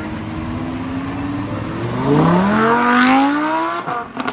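Lamborghini supercar's engine accelerating hard, loud, its pitch climbing steadily for about two seconds before the sound cuts off abruptly near the end.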